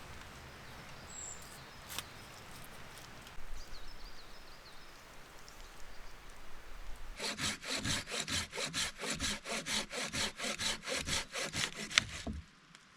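Hand saw cutting wood in quick, even back-and-forth strokes, about four a second, starting about seven seconds in, with a sharp crack just before the sawing stops.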